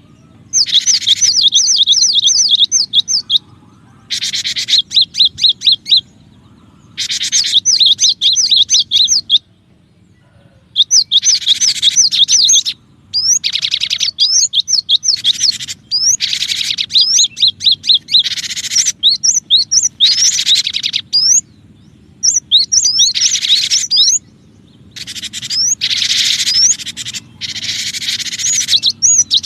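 Cinereous tit (gelatik batu) singing in bursts of rapid, repeated high chirps. Each burst lasts one to three seconds, with short pauses between them.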